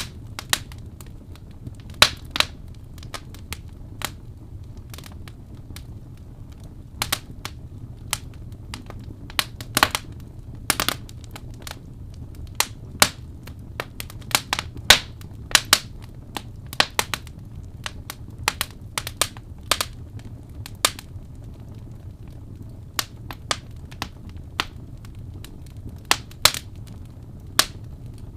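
Fire in a fireplace crackling, with irregular sharp pops and snaps, several a second, over a low steady hum.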